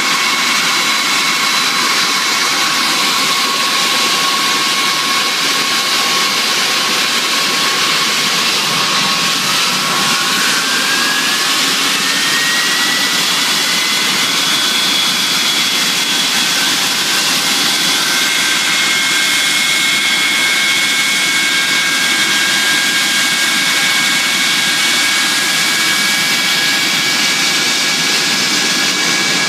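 Ilyushin Il-86's Kuznetsov NK-86 turbofan engines running with a steady loud jet whine and rush. About ten seconds in, one whine rises in pitch over a few seconds and then holds steady, an engine spooling up during start.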